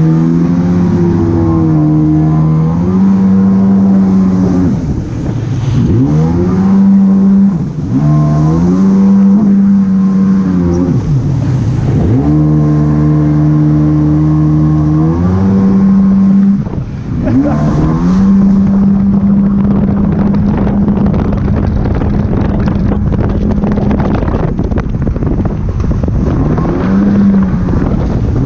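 Jet ski engine running under changing throttle: its pitch falls and climbs again several times, then holds steady for a stretch and dips once more near the end. A rough rush of wind and water spray runs underneath.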